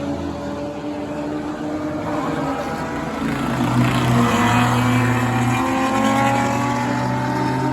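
Several race cars' engines running together on the track, their pitch slowly climbing as they accelerate. The sound grows louder about halfway through as cars pass close.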